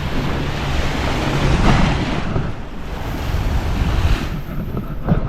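Wind buffeting the microphone at a lakeshore, a steady rushing noise that swells about two seconds in and eases near the end.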